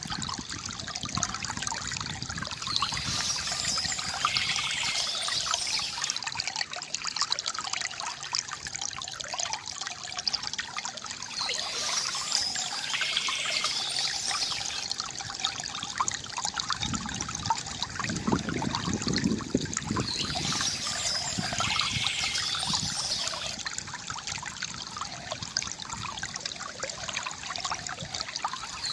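Water trickling and gurgling steadily from a bamboo fountain.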